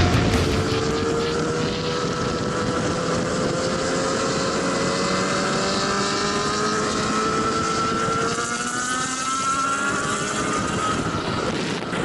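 Sportbike engine pulling hard, its pitch climbing steadily with a gear change about nine seconds in, over wind rush.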